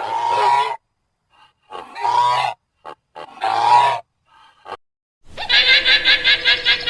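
An animal's grunting calls: three loud ones under a second long, about a second and a half apart, with a few short ones between. About five seconds in, a bird's rapid trilling call takes over, about seven notes a second.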